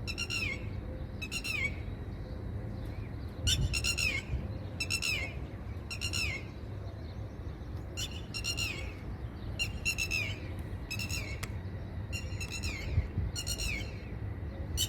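Red-wattled lapwing alarm calls: sharp, high notes that fall in pitch, repeated about once a second and sometimes in quick pairs. It is a parent bird protesting at an intruder near its chicks.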